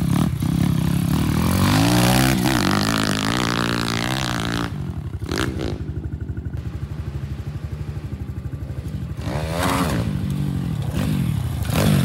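Pit bike engine revving up and down as it is ridden. It drops to a lower, steadier note about five seconds in, then revs up again near the end.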